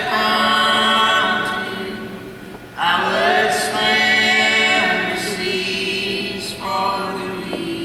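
Several voices singing in close harmony, with little or no instrument heard: two long held phrases, each starting loud and fading, then a shorter note near the end.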